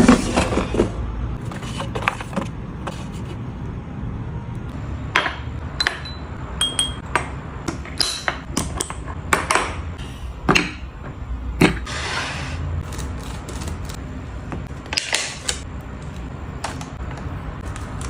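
Scattered clicks, clinks and knocks of small household objects being handled, a few ringing briefly, over a low steady hum.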